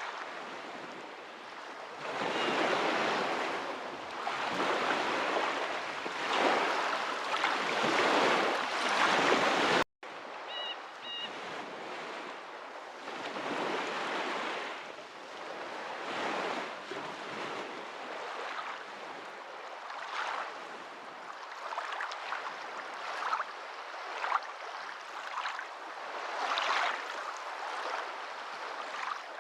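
Water rushing and washing in irregular surges, steady in character. It is louder in the first third, then cuts out abruptly for an instant and resumes. A few faint high chirps come just after the break.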